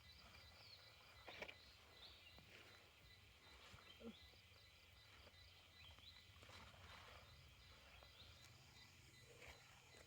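Near silence: faint outdoor ambience with a low hum and a few faint, short, high chirps scattered through it.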